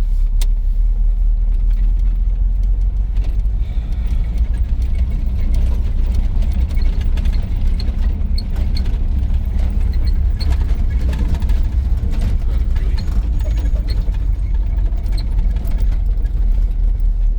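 Cab interior of a 1983 GMC C2500 pickup on the move: a steady low engine and road rumble, with small squeaks and ticks coming and going, mostly in the second half. One occupant takes the squeaking for a loose part in the dashboard; the other blames the brakes.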